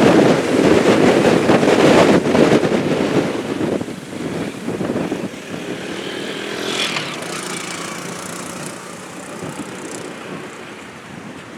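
Jet blast and engine noise from a Boeing 717-200's two Rolls-Royce BR715 turbofans at takeoff power, a loud rushing roar that falls away after about four seconds as the jet departs, leaving a fainter engine whine that slowly fades.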